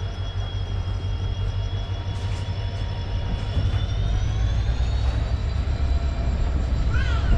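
Passenger train running: a steady low rumble with a thin high whine that slowly rises in pitch from about two seconds in.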